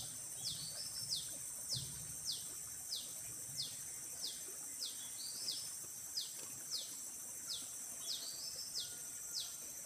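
A bird calling over and over, each call a short falling note, repeated evenly about every two-thirds of a second, over a steady high drone of insects.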